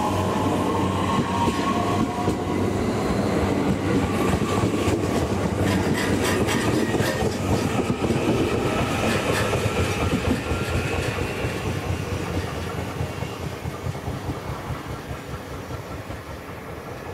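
Electric train pulling away. The traction-motor whine rises in pitch as it accelerates, the wheels clack over rail joints midway, and the sound fades steadily over the last several seconds as the train moves off.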